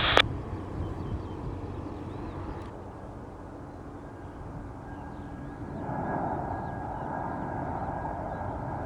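Jet airliner engines heard from a distance: a steady whine over a low rumble that grows louder about six seconds in. Faint bird chirps sit above it.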